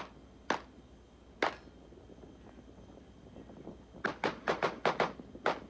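Glock 19 9mm pistol firing on a match stage: two single shots in the first second and a half, a pause of about two and a half seconds, then a fast string of about eight shots from about four seconds in.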